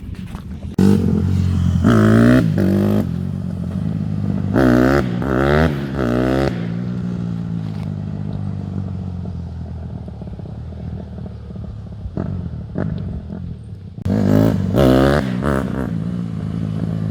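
Motorbike engines running, revved up and down several times with rising and falling pitch, loudest about two, five to six and fifteen seconds in. The sound starts abruptly about a second in.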